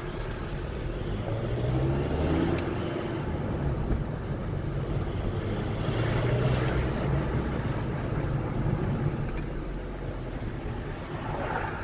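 2.0 TDI BKD diesel engine pulling and easing off while driving, its note rising and falling, with the turbocharger's wastegate fluttering ("flufluflu"), a healthy factory-standard sound.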